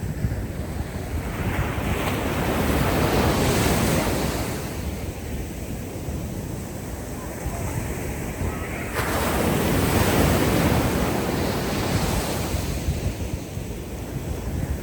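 Ocean waves breaking and washing up a beach, swelling and fading twice, about six seconds apart. A steady low rumble of wind on the microphone runs underneath.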